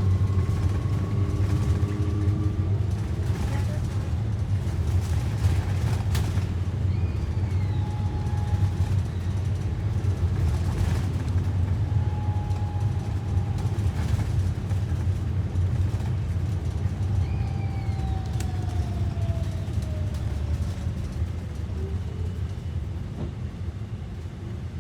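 Cabin ride noise of a Blue Bird electric school bus under way: a steady low road and chassis rumble with a faint thin electric-drive whine that slides down in pitch and fades as the bus slows near the end.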